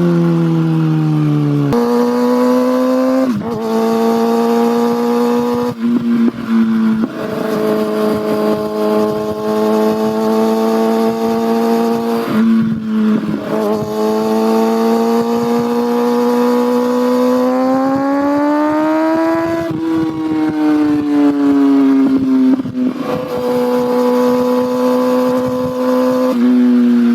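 Kawasaki ZX-6R inline-four engine and exhaust while riding, the note rising and falling with throttle and gear changes. The pitch drops at the start, jumps back up, holds fairly steady with small steps, then climbs slowly for several seconds and eases off again.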